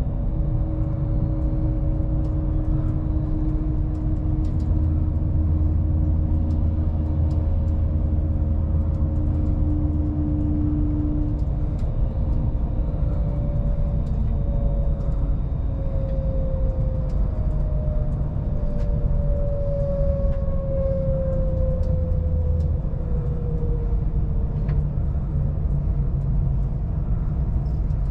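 Inside an electric passenger train slowing into a station: a steady low rumble of wheels on the track, with a motor whine that slowly falls in pitch and a few faint ticks.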